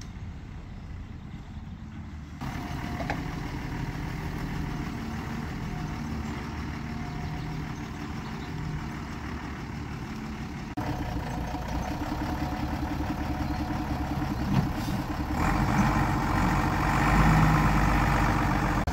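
Vehicle engine running under way, with a steady low drone that jumps up in level twice and is loudest over the last few seconds.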